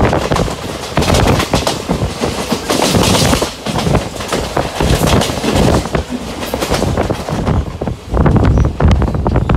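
Passenger train wheels running at speed, a steady rumble with irregular clattering clicks over the track, heard from an open coach door.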